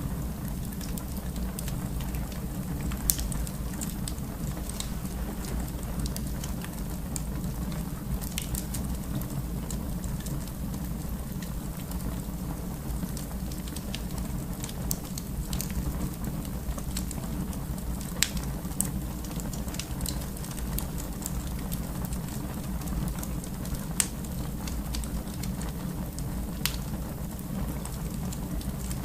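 Wood fire burning in a fireplace: a steady low rumble and hiss of flames, with sharp crackles and pops every few seconds.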